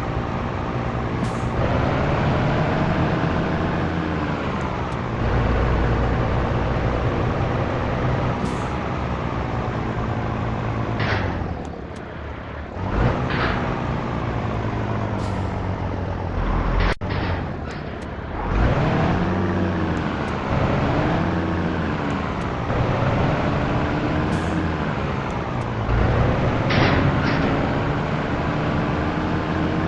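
Heavy truck diesel engine, likely the Scania T113, running under load: the revs climb steadily and drop sharply several times as it shifts gear. Short, sharp hisses of compressed air come several times throughout.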